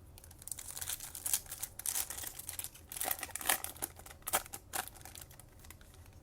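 Wrapper of a Topps Chrome trading-card pack crinkling and tearing as it is opened by hand: a run of irregular crackles that dies down about five seconds in.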